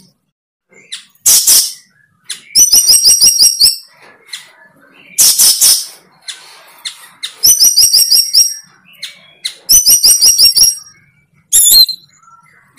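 A bird calling loudly and close by: short harsh, noisy calls alternate with rapid runs of sharp high chirps, about eight a second, the phrases repeating every couple of seconds.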